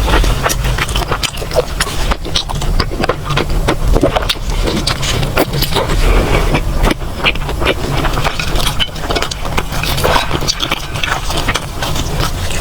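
Close-miked eating sounds: chewing and mouth noises with a dense, irregular stream of sharp wet clicks and crackles over a low steady rumble.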